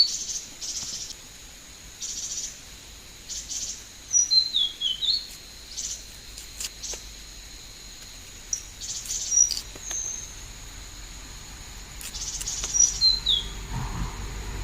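A bird singing a short falling whistled phrase, repeated about four times a few seconds apart, over a steady high-pitched drone.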